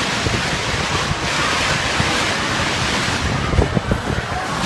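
Strong storm wind blowing, buffeting the microphone in gusts, with a few stronger gusts a little past halfway.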